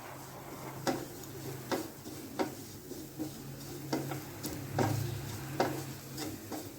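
A spoon stirring an onion and spice masala in a pan, with scraping and a sharp knock against the pan about once a second, over a steady low hum.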